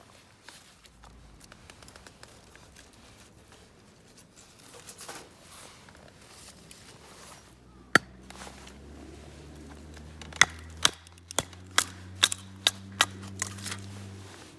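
A hammer driving tent pegs: one sharp knock, then after a pause a run of about eight sharp strikes at roughly two a second, over a low steady hum.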